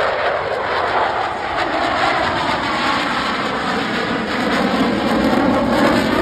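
An airplane flying past loudly, its engine pitch falling as it goes by.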